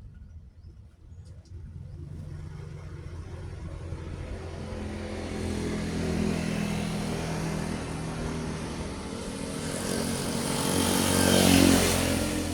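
A truck approaches and passes close by. Its engine note grows louder over several seconds and is loudest near the end, with a rush of tyre and air noise, then begins to fade.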